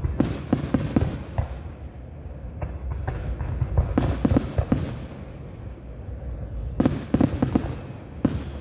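Fireworks display: clusters of sharp bangs, just after the start, around four seconds in and again near seven seconds, over a continuous low rumble of more distant bursts.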